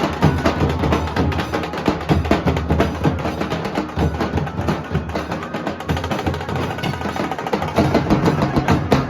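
Nasik dhol drumming: a fast, continuous rhythm of dense drum strikes with sharp, cracking beats.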